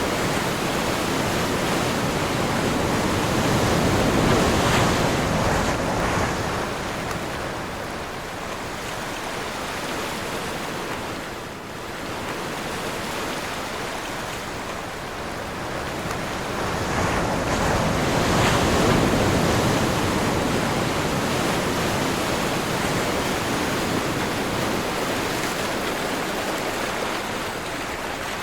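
Ocean waves breaking and washing ashore in wind, as continuous surf. One larger wave swells a few seconds in and another about two-thirds of the way through, with a lull between them.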